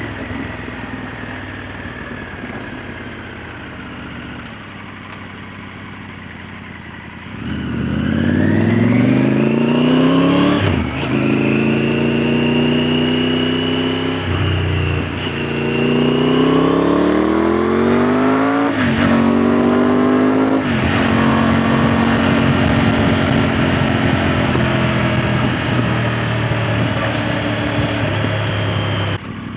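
Triumph Tiger 900 GT's three-cylinder engine through an Arrow aftermarket silencer. It runs low and steady at first, then from about seven seconds in accelerates hard, the pitch rising and dropping at about four upshifts, before it settles to a steady cruise.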